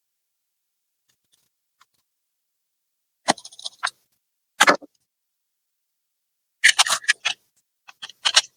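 Sharp clicks and brief clatters of small hard parts being handled, in four separate bursts with dead silence between them.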